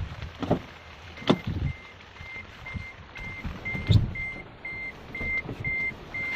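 An electronic beeper sounding a short high tone about twice a second, starting about a second in, over a steady hiss of rain, with a few sharp knocks and thumps, the loudest about four seconds in.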